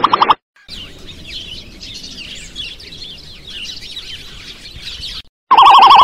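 The end of a loud wavering tone cuts off. After a short gap, many small birds chirp in a dense chorus of quick, high, falling notes, which stop shortly before a loud wavering tone comes back near the end.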